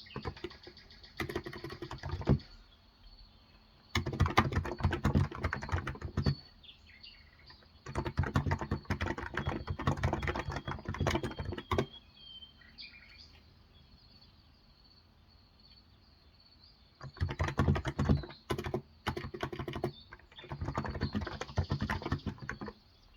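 Typing on a Cox Endeavor electro-capacitive 35 g tenkeyless keyboard: five runs of rapid keystrokes separated by short pauses, the longest pause about five seconds. Faint bird chirps and a faint steady high tone sit underneath.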